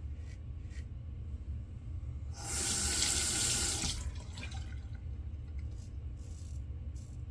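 Sink tap running for about a second and a half, starting about two and a half seconds in, then shut off.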